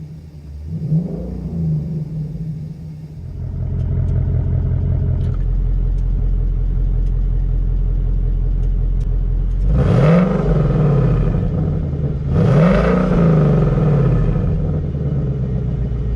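2019 Mustang GT's 5.0 L V8 through a Pypes H-pipe with the active exhaust in quiet mode, heard from inside the cabin. It idles with a small blip about a second in, then is revved twice, near ten and twelve and a half seconds, each rev rising and falling back.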